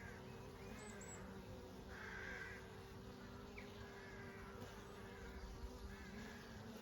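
Honey bees buzzing in a steady, continuous drone. A bird calls over it again and again, about once a second.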